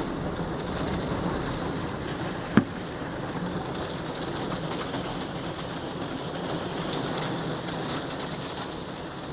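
Hailstones beating down on the roof, heard from indoors as a dense, steady patter of many small hits, with one sharp knock about two and a half seconds in.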